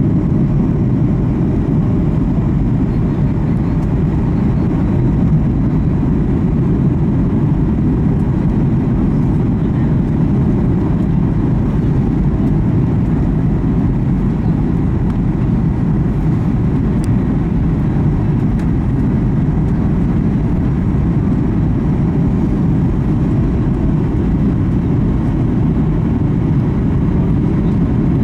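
Steady low rumble of a Boeing 737 MAX 8's engines and airflow heard inside the passenger cabin.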